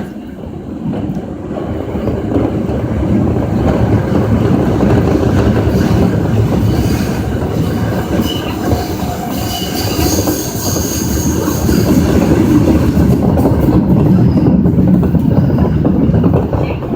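Osaka Metro Tanimachi Line subway train running through its tunnel, with a loud, steady rumble of wheels on rail. Thin, high wheel squeal comes and goes through the middle.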